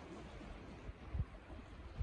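Faint, uneven low rumble of wind buffeting the microphone outdoors, with one short bump about a second in.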